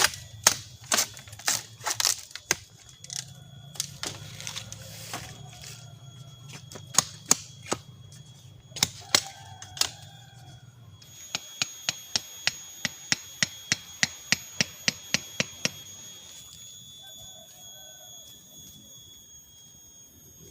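Sharp blows of a hand tool striking wood, irregular at first, then a steady run of about three blows a second that stops about two-thirds of the way through. A steady high-pitched insect drone runs underneath.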